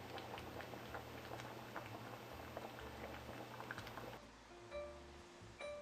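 Liquid boiling in a pot, a dense crackle of bursting bubbles that cuts off suddenly about four seconds in.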